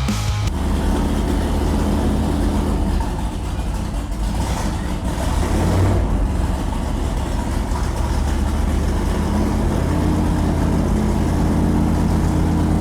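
A car engine running steadily with a deep low hum.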